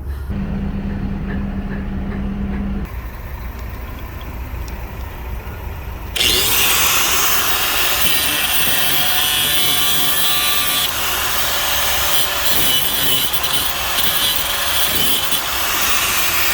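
Angle grinder cutting through a seized battery-terminal bolt. The loud, steady grinding starts about six seconds in and runs on; a brief steady hum comes before it.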